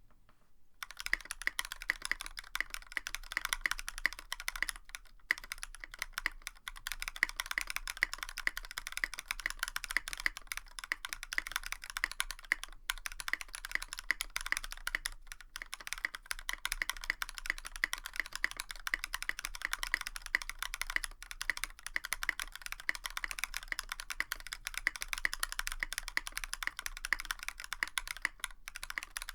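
Continuous typing on a Tofu65 mechanical keyboard with a brass plate, lubed Durock POM switches and PBT keycaps: a fast, irregular stream of keystroke clacks that starts about a second in.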